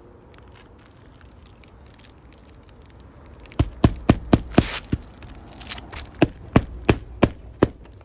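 About a dozen sharp hammer blows in quick succession, roughly three a second, starting a few seconds in: roofing nails being driven through a replacement asphalt shingle.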